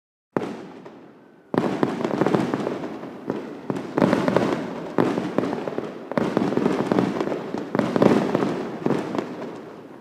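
Fireworks display: a rapid run of loud bangs and crackling bursts about a second apart. It starts abruptly just after the beginning and thins out near the end.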